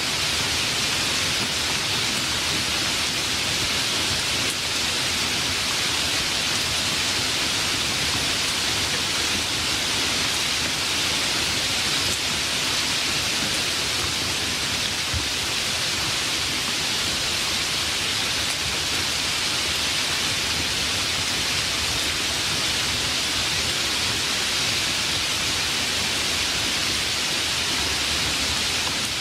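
Steady heavy rain, an even hiss with no breaks, no drop in level and no single loud event.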